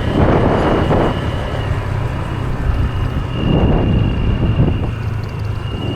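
Motorbike engine running while riding, with wind rushing over the microphone in gusts. A thin, steady high-pitched tone fades in and out over it.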